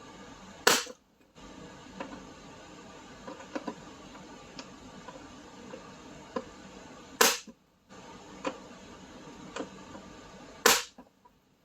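Three sharp strikes of a dead-blow hammer on a hand impact driver, about a second in, at about seven seconds and near the end, jarring seized bolts loose. Light clicks and taps of the tool being set come between.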